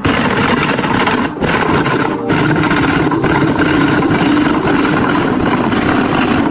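A power woodworking tool running loudly and steadily under load, briefly easing off twice, about a second in and again just after two seconds.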